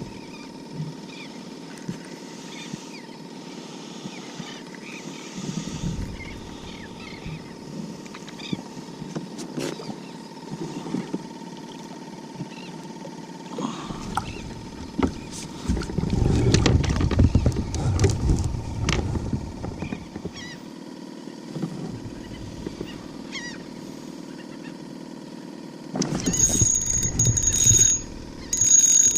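Kayak out on open water: small knocks and water noise around the hull, with a louder low rumbling stretch in the middle. Near the end a high-pitched electronic beeping starts, on and off.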